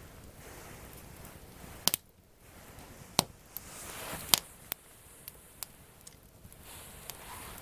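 Wood campfire crackling, with a few sharp pops, the loudest about two, three and four seconds in, and a soft rush of flame swelling in between.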